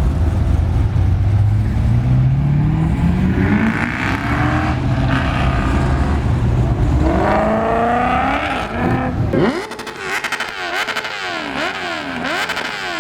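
Car engines revving at a car meet: a deep exhaust note climbs in pitch several times. About three-quarters of the way through, the rumble gives way to a sharp rising rev, then a higher note that rises and falls quickly several times.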